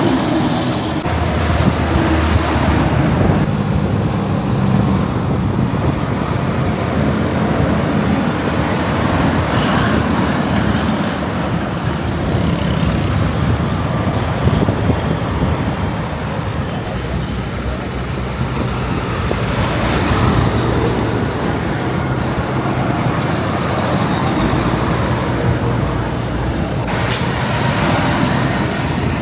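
Heavy trucks running in road traffic, with a steady low engine sound and tyre and road noise, and a short hiss near the end.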